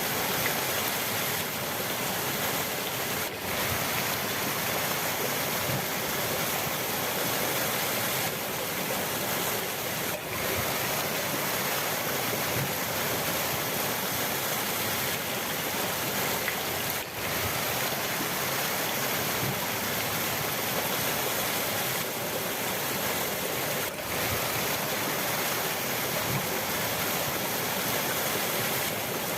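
Rushing river water, a steady, even hiss with no let-up, broken only by brief dips about every seven seconds.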